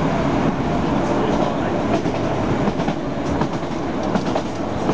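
Inside a diesel multiple-unit passenger train running at speed: a steady rumble of wheels on the rails, with a run of sharp clicks from the wheels over rail joints in the second half.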